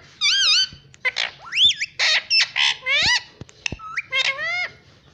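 Pet parrot calling: a quick run of about eight high whistled calls, some wavering and some sliding upward, mixed with harsh screeches, stopping shortly before the end.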